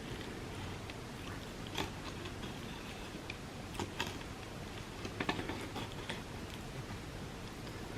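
Close-miked eating sounds of a person chewing Dubai chocolate–filled crepes: soft chewing with scattered sharp mouth clicks, a few of them clustered around the middle, over a steady low background hum.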